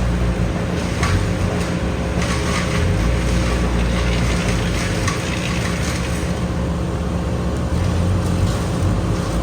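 Heavy machinery engine running steadily with a low rumble, with a faint crackling hiss for a few seconds early on.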